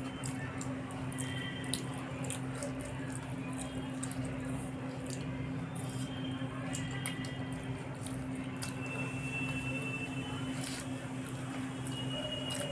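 Close-up eating sounds: wet squishing and sticky clicks of rice and egg curry being handled and chewed, scattered irregularly. A steady low electrical hum runs underneath.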